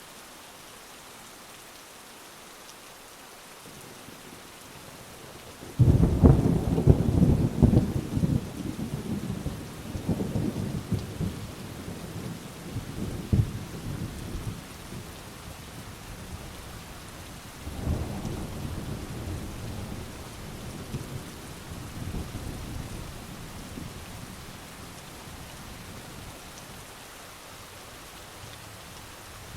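Thunderstorm: steady heavy rain, with a sudden close thunderclap about six seconds in that rumbles and rolls away over several seconds, and a second, weaker roll of thunder near eighteen seconds in.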